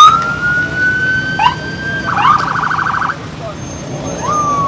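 Police car siren sounded in short manual bursts. A quick rising whoop opens into a held tone that climbs slightly, then a fast pulsing warble of about a second. Another whoop and a short falling tone follow near the end.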